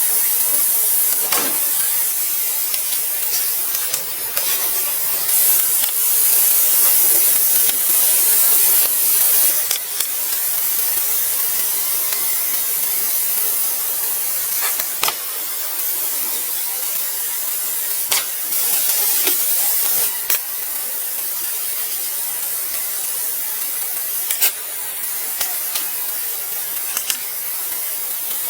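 A steady high hiss, louder for a few seconds early on, with scattered sharp clicks and taps.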